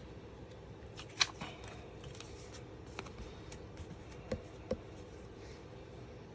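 Cardstock pieces being handled on a tabletop: light paper rustles and taps, with one sharp click about a second in and two small taps a little past the middle.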